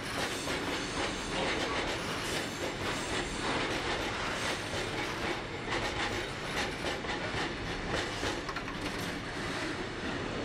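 Freight train of Yeoman aggregate hopper wagons rolling past, a steady rumble with repeated wheel clicks on the track. The sound eases near the end as the last wagon goes by.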